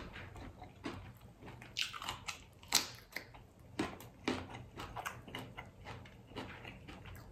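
Close-up chewing of a crunchy hard-shell taco, with irregular crunches and mouth clicks, a few louder crunches near the middle.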